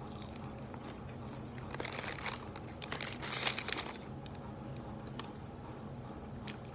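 Food wrapping crinkling as it is handled and opened, in two bursts about two and three and a half seconds in, over a low steady hum.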